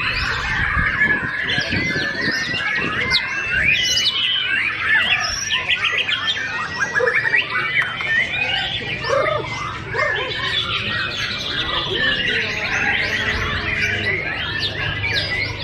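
White-rumped shama (murai batu) singing a rapid, unbroken stream of varied whistles, chirps and trills, with other songbirds singing over it at the same time.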